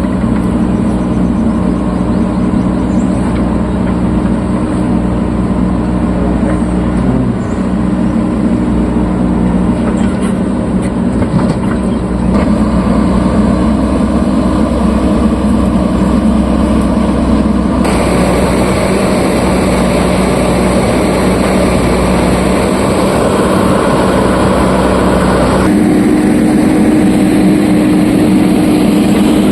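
Diesel engines of a backhoe loader and a tractor running steadily at work, a loud, constant drone. The sound changes abruptly about twelve, eighteen and twenty-six seconds in.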